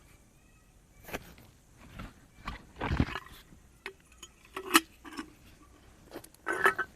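A few irregular knocks and clicks of things being handled, the loudest a dull thump about three seconds in and a sharp click near the middle.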